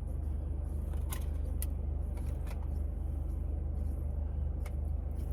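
Steady low mechanical hum, with a few light clicks and taps of small objects being handled.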